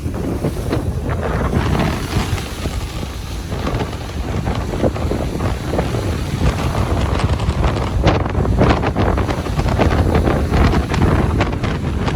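Ocean waves breaking and washing on a beach, a continuous surf roar, heavily buffeted by wind on the microphone with a low rumble.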